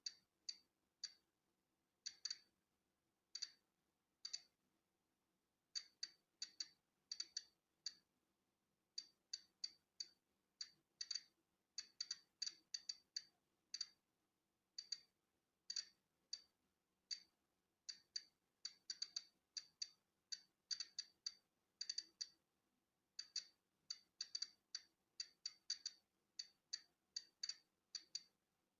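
Polon EKO-C digital Geiger counter clicking at natural background radiation: short, sharp clicks at random intervals, about two a second on average, sometimes bunched close together and sometimes a second or more apart.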